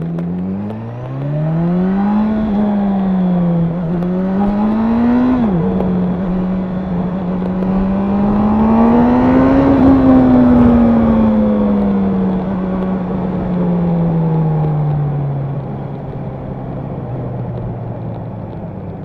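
Honda CB1000R's inline four-cylinder engine and exhaust under way: revs climb, drop sharply about five seconds in as it shifts up, climb again to a peak around ten seconds, then slowly wind down as the throttle is rolled off.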